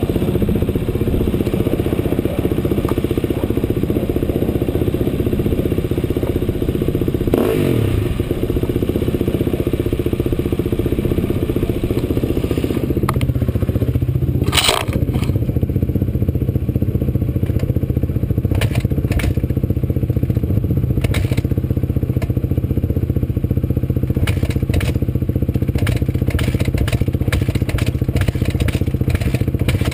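An off-road vehicle's engine running steadily while riding over rough ground. The pitch sweeps down briefly about eight seconds in, there is a sharp knock about halfway through, and short clicks and knocks come in quick succession in the second half.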